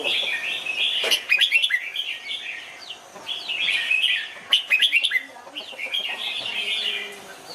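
Red-whiskered bulbul singing: three runs of quick, bubbly whistled phrases, with short pauses between them and a few sharp clicks.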